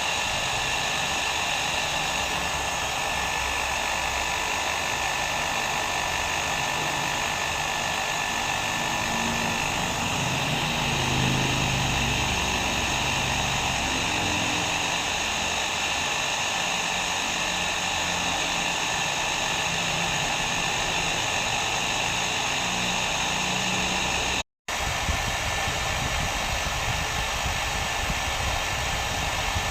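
Hair dryer running steadily, a continuous whooshing blow with a faint steady whine, used as white noise. It cuts out for a split second about three-quarters of the way through, then carries on unchanged.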